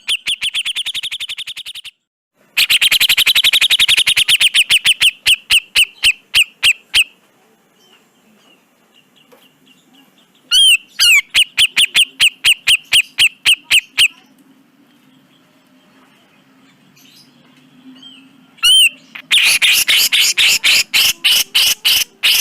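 Cucak jenggot (grey-cheeked bulbul) calling in harsh, rapid chattering bouts. Each bout opens with a looping note and runs into a fast series of clipped notes that slows and fades. There are four bouts, with pauses of a few seconds between them.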